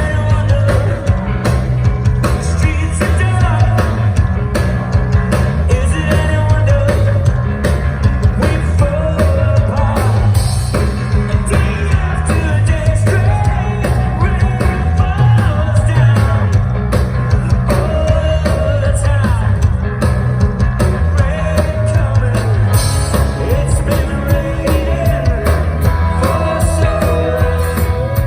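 Live rock band playing with a steady heavy bass beat, and a singer's melody over it.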